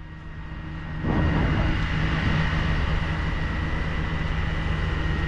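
A fire truck's engine and water pump running steadily, with a low hum and a steady high whine, getting much louder about a second in.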